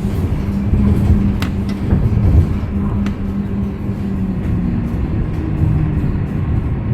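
Hyundai Green City city bus's C6GB compressed-natural-gas engine running steadily while the bus drives, with a few sharp clicks of cabin rattle about one and a half and three seconds in.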